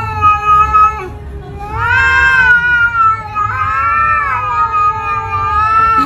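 Domestic cats caterwauling in a face-off: long, wavering yowls, a warning between cats about to fight. A held yowl breaks off about a second in, then comes a rising-and-falling yowl, then another long wavering one from about three and a half seconds.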